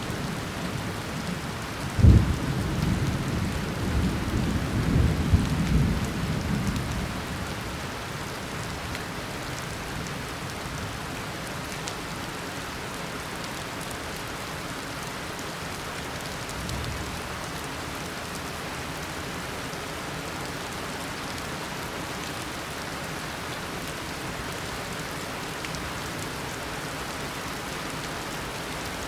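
Tropical rainstorm: steady heavy rain, with a sharp thunderclap about two seconds in whose rumble dies away after a few seconds, leaving the rain alone.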